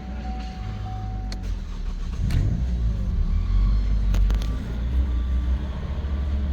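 Opel Astra J's 1.7 CDTi four-cylinder turbodiesel (A17DTR) running steadily, a little louder from about two seconds in.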